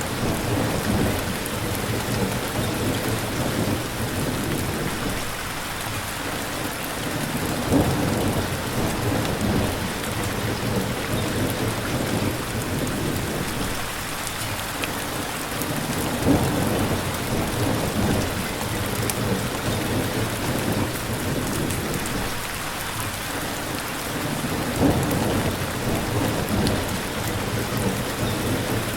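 Steady rain falling, with low rumbles of thunder swelling up about every eight seconds.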